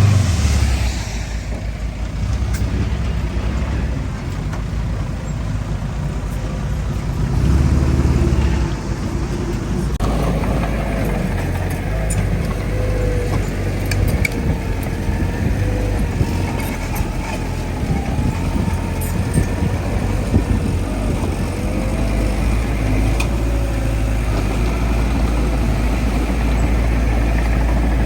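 Heavy diesel earthmoving machinery runs steadily with a deep engine drone, surging briefly about eight seconds in. From about ten seconds a wavering whine rides over the engine, with occasional metallic clanks.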